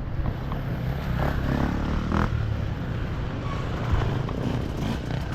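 Enduro motorcycle engines running at low revs on a dirt trail, a steady low drone, with a couple of brief knocks.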